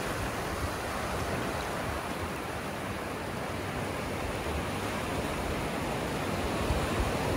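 Ocean surf washing on a beach: a steady, even rush of noise with no single wave breaking out above it.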